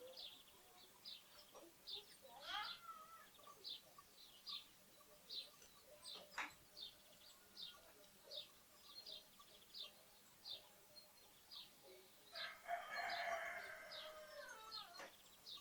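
Sparrows chirping steadily, faint, with short high chirps about twice a second. A rooster crows once near the end, a call of about two and a half seconds that falls in pitch as it ends.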